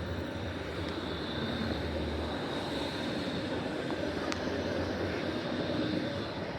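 Toronto transit train in motion, heard on board: a steady rumble and hiss of running with a low hum and a faint high whine, easing off near the end.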